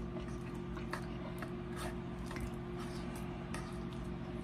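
Close-up eating sounds: a person chewing a mouthful of baked potato with gravy, with short wet clicks of the mouth and utensil coming about twice a second. A steady low hum runs underneath.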